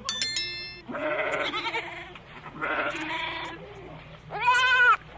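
Three bleats from a goat or sheep-like animal, wavering calls, the last one the loudest and arching up then down. A brief bright ringing tone sounds at the very start.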